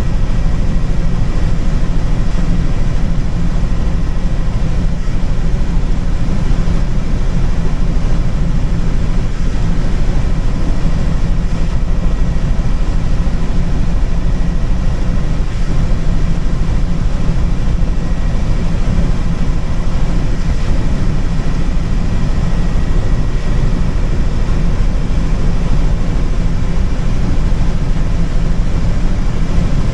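Helicopter in flight heard from on board: a loud, steady drone of rotor and engine that does not change.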